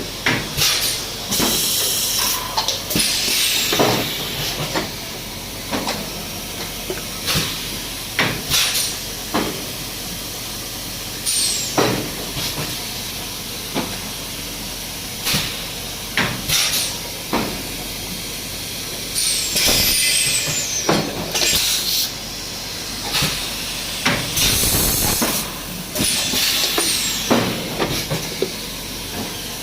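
Plastic bottle blow-moulding machinery cycling: repeated hissing blasts of compressed air, with knocks and clacks of the mould and pneumatic parts about every second or two, over a steady machine hum.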